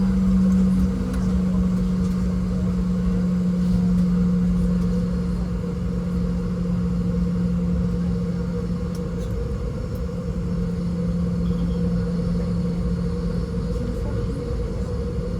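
Boeing 717 cabin noise while taxiing: its rear-mounted Rolls-Royce BR715 turbofans run at low taxi power as a steady hum with two held tones, over a dense low noise from the aircraft rolling.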